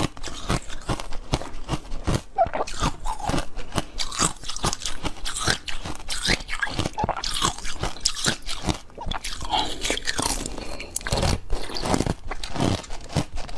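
Close-miked eating: a person biting and chewing crunchy food, with dense, irregular crackling crunches and wet chewing throughout.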